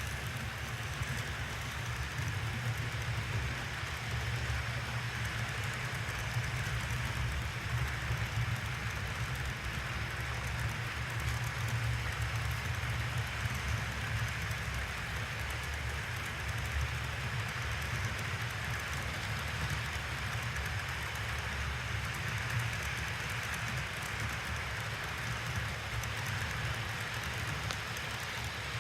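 Model N&W EMD SD45 diesel locomotive running on a layout's track, a steady low rumble that goes on without a break.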